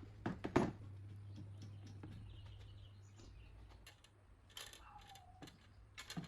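A few sharp clicks and knocks, the loudest cluster about half a second in, with more near the end, over a low steady hum that stops a little after two seconds.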